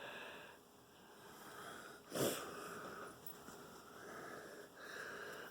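A man's audible breathing close to the microphone, a slightly wheezy in-and-out every second or two, with one short louder breath sound about two seconds in.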